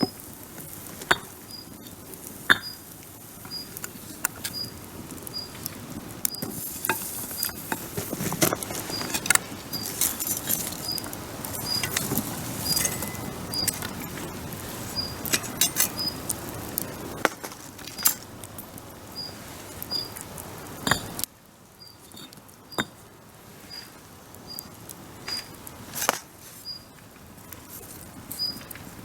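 Wood campfire crackling with irregular sharp pops and snaps, and a faint high, short chirp repeating almost twice a second throughout. The background noise drops suddenly about two-thirds of the way through.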